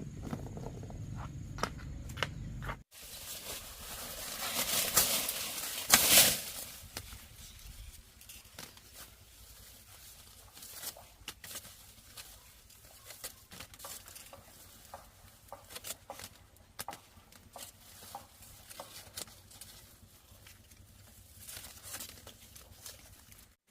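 Rustling and crackling, like dry material being handled. It swells to a louder rustle a few seconds in, then thins to scattered light snaps and clicks.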